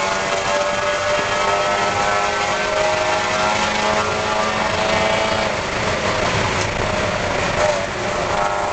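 Spec Miata race car's Mazda four-cylinder engine running hard at high revs, heard from inside the cabin. The pitch climbs slowly and then wavers about halfway through, over steady road and wind noise.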